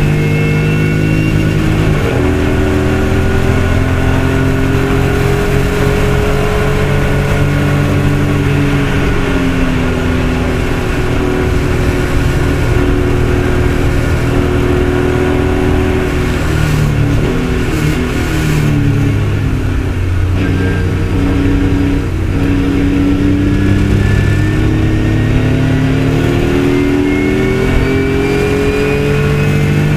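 BMW race car's engine heard from inside the cabin at racing speed. The revs climb slowly through the first part, drop in steps under braking and downshifts around the middle, then climb again towards the end.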